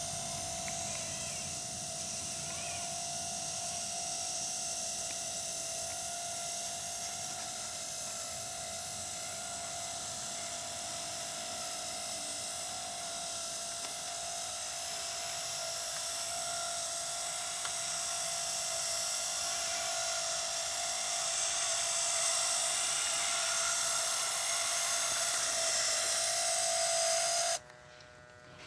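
Small electric motors and gearing of a 1:16 RC Claas Lexion 780 TT model combine harvester whining steadily, with several fixed tones over a hiss; the sound cuts off sharply about a second before the end.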